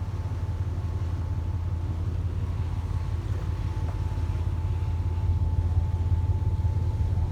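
Steady low drone of the MS Polarlys's engines and machinery heard on deck, with a faint thin whine held over it.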